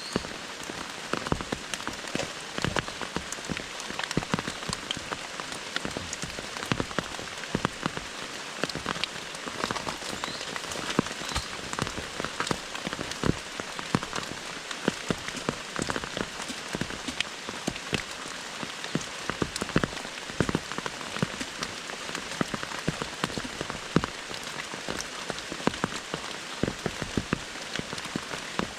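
Heavy rain falling steadily, with many separate drops striking loudly close by.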